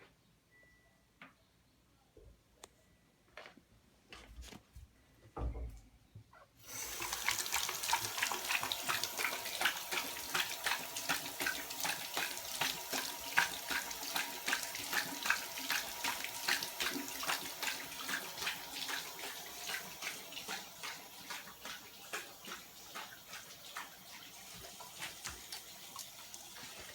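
A few soft knocks, then about six and a half seconds in a bathroom faucet is turned on and runs. A yellow Labrador laps at the running stream: a quick, even splashing of a few laps a second over the flow, easing off near the end.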